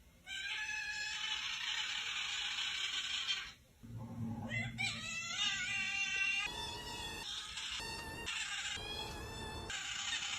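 A cat yowling: one long, steady, high call of about three seconds, then a string of shorter calls that waver and bend in pitch, with brief breaks between them.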